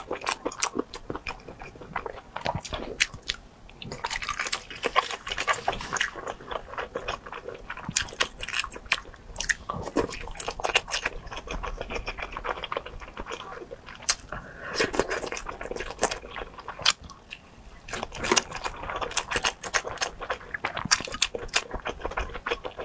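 Close-miked chewing of oden skewers (fish balls and fish cakes) soaked in chili-oil broth: biting and chewing with many irregular mouth clicks.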